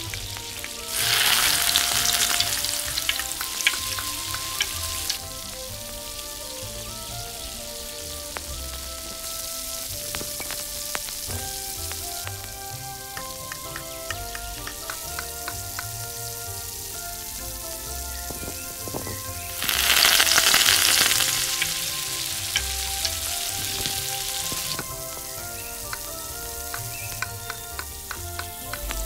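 Oil sizzling as food fries in a miniature pan, with two loud surges of sizzling, one about a second in lasting a few seconds and another around twenty seconds in, and light scattered clicks from utensils between.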